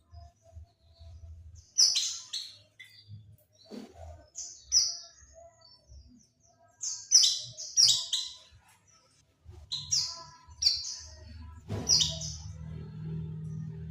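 White-eye (pleci) singing in short, high chirps that come in quick clusters with gaps between them. This is the kind of song played as a lure to set caged white-eyes singing. A low steady hum comes in near the end.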